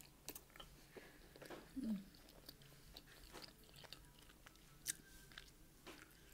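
Faint, close-miked chewing of a mouthful of pizza: soft wet mouth clicks and smacks, with a short low murmur about two seconds in.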